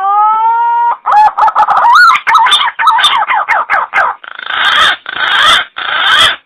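Recorded green pigeon (punai) call played as a hunting lure: a rising whistle, then a quick run of warbling whistled notes, ending in three longer, rougher notes.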